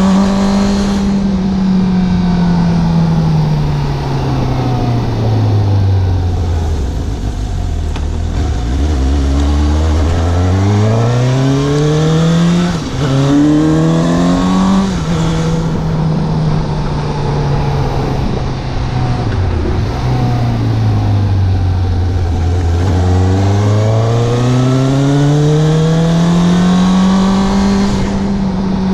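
Suzuki GSX750 motorcycle's inline-four engine under way. The engine note sinks slowly as the bike slows, then climbs as it accelerates, with a quick upshift about halfway through. It holds a steady note for a few seconds, then falls and rises once more in a final pull.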